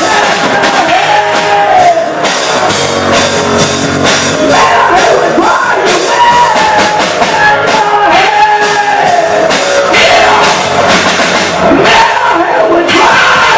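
Loud rock music: a band with a drum kit playing, with a melody line sliding up and down over it.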